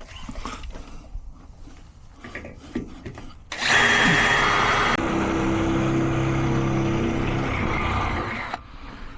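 Power drill starting about three and a half seconds in and running for about five seconds, driving in the fixings for a gate's bottom hinge. Its sound changes about a second after it starts, then it stops suddenly; quiet knocks and handling come before it.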